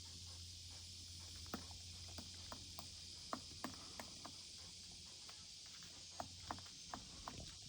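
Woodpecker pecking at a tree, a series of irregular sharp taps starting about a second and a half in: foraging for food in the wood.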